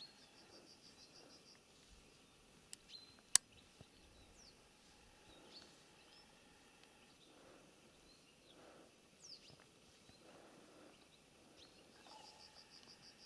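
Faint songbird calls: a quick, evenly repeated high trill at the start and again near the end, with a few short high chirps between, over a quiet background hiss. A sharp click about three seconds in, with a smaller one just before it, is the loudest sound.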